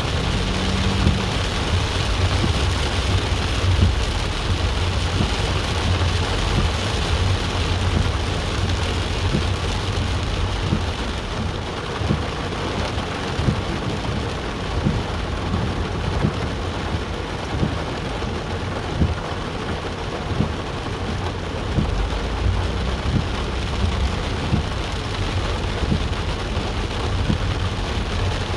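Rain falling steadily and heavily, an even hiss with many small drop impacts and a low rumble underneath.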